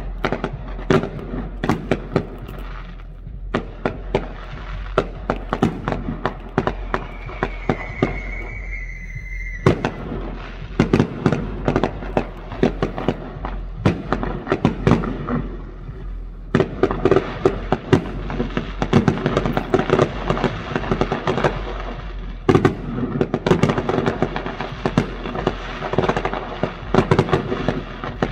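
Consumer fireworks finale going off as a rapid, dense string of bangs and crackles, with a brief whistle about eight seconds in. The barrage thickens from about sixteen seconds in.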